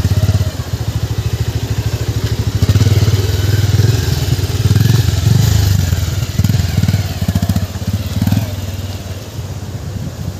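Motorcycle engine running under load, its rapid firing pulses swelling and easing as the throttle is worked.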